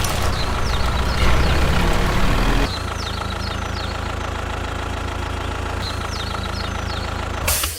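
An engine running steadily, which turns abruptly quieter about two and a half seconds in, with birds chirping in the background and a brief burst of noise near the end.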